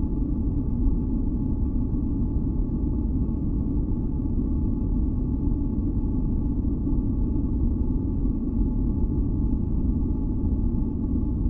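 Continuous deep noise for sleep or tinnitus masking: a steady rumble heaviest in the bass, with faint, unchanging hum tones above it and no breaks or changes.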